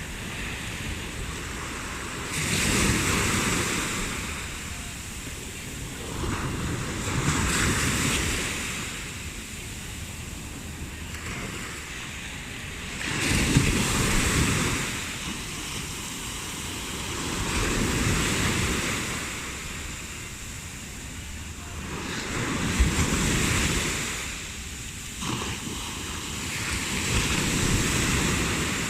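Sea waves washing in on the shore, six swells each rising and falling back, about every four to five seconds, with some wind on the microphone.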